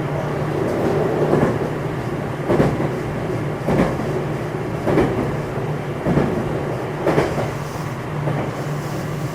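Interior running noise of a JR West 227 series electric train, heard in the motor car: a steady hum at constant pitch, with the wheels knocking over rail joints about once every 1.2 seconds, as at a steady cruising speed.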